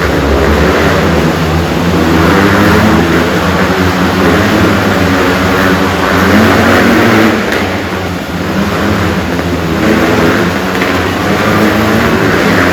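Motorcycle engines revving continuously and rising and falling in pitch as riders circle inside a steel globe.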